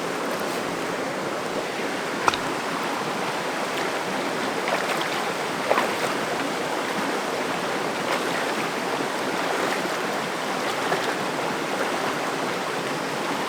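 Creek water rushing steadily over rocks, with a sharp click about two seconds in and another near six seconds.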